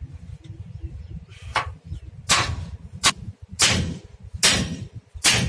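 A hammer striking a steel truck leaf spring during a spring repair. There are six sharp blows, a little under a second apart, getting louder after the first.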